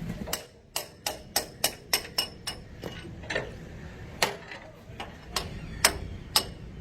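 Hand hammer tapping on metal truck parts: a quick even run of sharp blows, about four a second, then slower, irregular strikes, the hardest two near the end.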